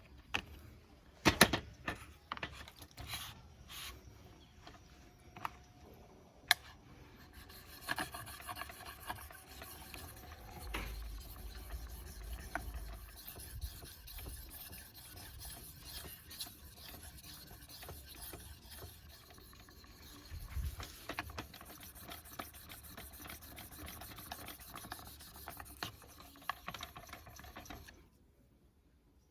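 Old hunting knife blade being rubbed back and forth on a sharpening stone: a steady run of grinding strokes, preceded by a few knocks and a sharp click in the first seven seconds.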